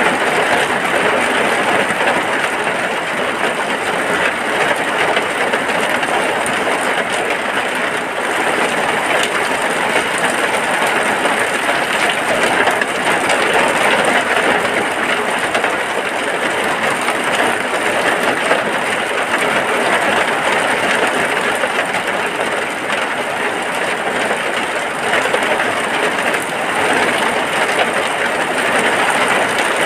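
Steady rain falling on a hut, an even hiss that does not let up.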